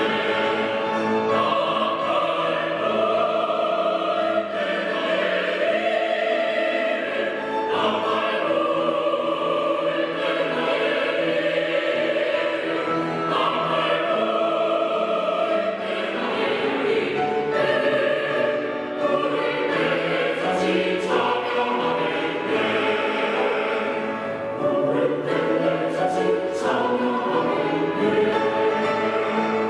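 Church choir singing a hymn, many voices together with steady sustained phrases.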